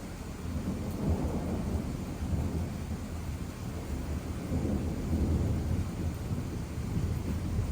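Thunder rolling: a long, low rumble that builds about a second in and swells and eases in waves, over a faint steady hiss.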